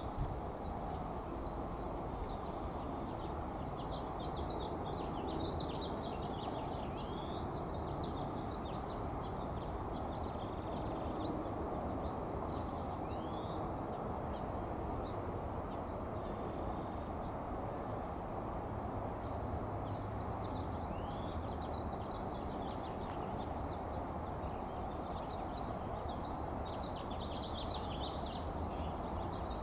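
Small birds chirping with many short, quick high calls throughout. A short, flat whistled note recurs about every six to seven seconds, over a steady low background rumble.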